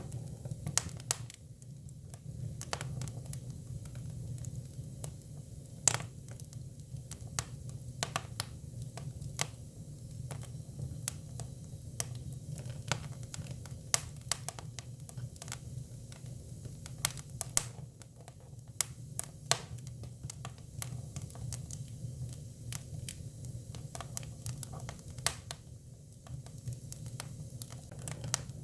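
Hinoki cypress firewood burning, with irregular crackles and sharp pops over a steady low rumble of flame.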